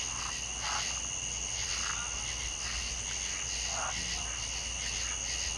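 Chorus of insects trilling steadily at two high pitches, with three short, lower calls rising out of it.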